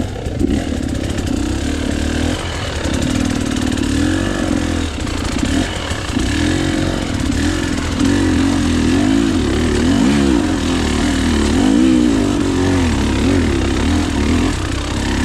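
KTM EXC 300 two-stroke single-cylinder enduro engine running under load on a trail ride, the revs rising and falling over and over as the throttle is worked.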